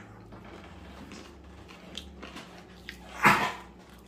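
A person chewing a mouthful of tripe taco with closed lips, with one short, loud, breathy burst a little past three seconds in.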